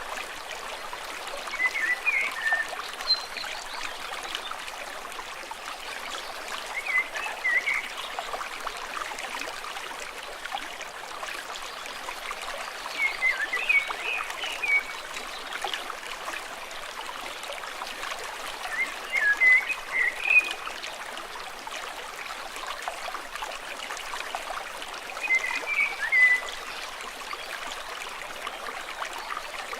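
Stream water flowing and trickling steadily, with a short burst of quick high chirping calls about every six seconds, five times.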